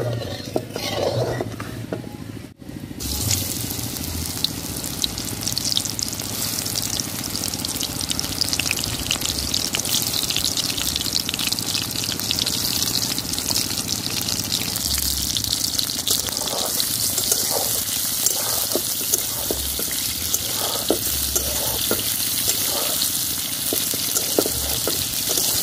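Marinated soya chunks deep-frying in hot oil in a kadai: a steady sizzle that starts abruptly about two and a half seconds in.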